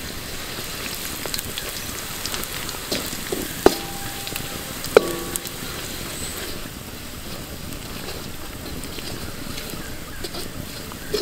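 Chopped aromatics frying in oil in a steel wok: a steady sizzle with crackle as a metal ladle stirs. The ladle knocks against the wok twice, a little under four and about five seconds in, each a sharp clink with a brief metallic ring.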